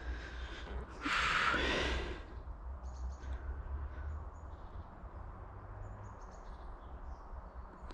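A loud breath out, about a second long, about a second in, followed by faint, scattered bird chirps over a low outdoor rumble.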